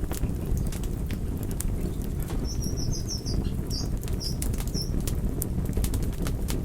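Wood fire burning with a steady low rumble and frequent sharp crackles and pops. A quick run of short, high chirps sounds about halfway through.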